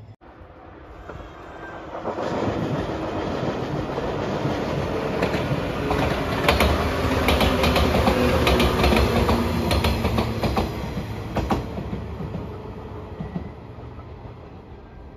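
A JR 115-series electric multiple unit passing close by on the track: the rolling noise builds over the first couple of seconds, is loudest in the middle with a run of clickety-clack as the wheels cross rail joints, then fades as the train draws away.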